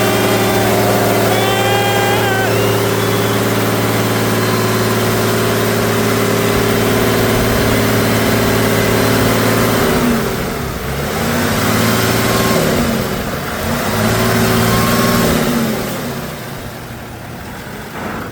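Off-road truck engine running at steady high revs for about ten seconds, then dropping and climbing back twice, and settling lower and quieter near the end.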